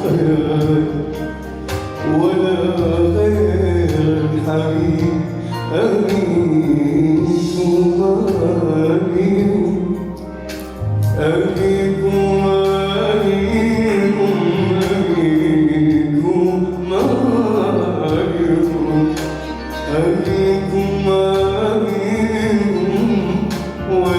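A man singing a slow, drawn-out melody over instrumental accompaniment with long held low notes.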